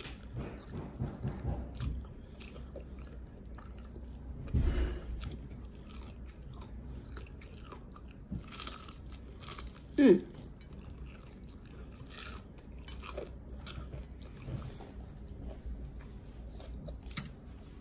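Close-up chewing and crunching of fried chicken, with scattered small mouth clicks. A dull thump comes about four and a half seconds in, and a brief falling tone about ten seconds in.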